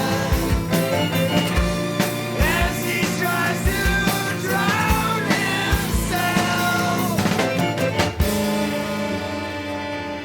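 Recorded noise-rock music with a drum kit and pitched lines sliding up and down over a sustained low chord. About eight seconds in, a final hit lands and the sound thins and gets quieter.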